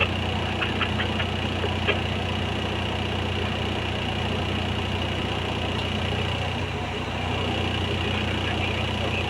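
Heavy mining machine's diesel engine running steadily at a constant speed, with a few light clicks in the first two seconds.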